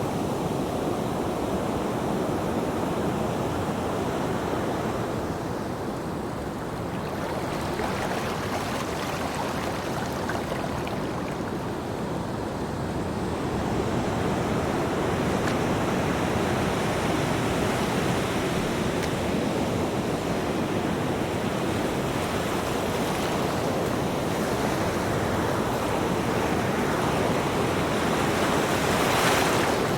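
Ocean surf: a continuous rush of waves that swells and eases slowly, with one louder wave breaking near the end.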